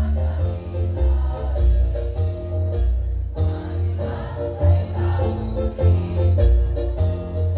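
Women's choir singing over an amplified accompaniment with a heavy, pulsing bass.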